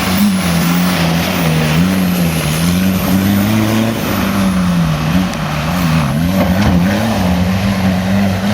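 1.9 TDI four-cylinder diesel engine of an off-road vehicle working hard off-road, its revs rising and falling continuously as the driver works the throttle.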